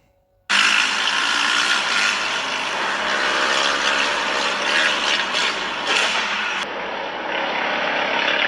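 Loud, steady rattling vehicle noise that starts abruptly about half a second in and turns duller about two-thirds through.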